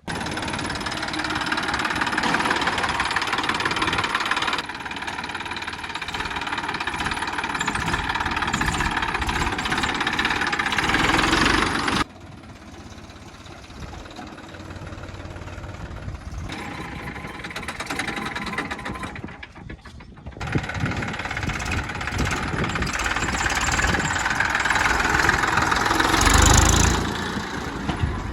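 Diesel engines of heavy machinery working. The sound changes abruptly about 5, 12 and 20 seconds in, as if separate clips were joined, and swells loudest near the end.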